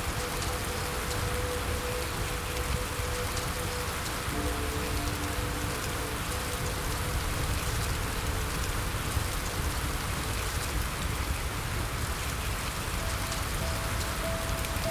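Steady rain: an even hiss with scattered drop ticks. Under it, soft background music plays a few long held notes.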